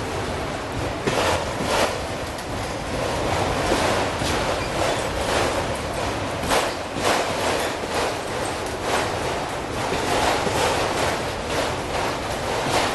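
Autorack freight cars rolling past: a steady rush of wheel and rail noise with irregular clicks of wheels over rail joints.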